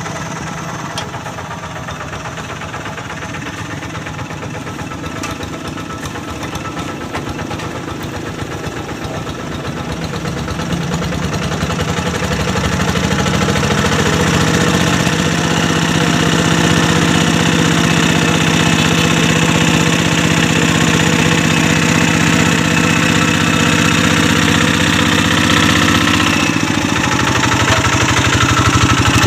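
Kubota diesel engine of a Quick G1000 Boxer hand tractor running while working a paddy field. It gets louder and picks up speed about halfway through, runs steadily, then drops to a lower pitch near the end.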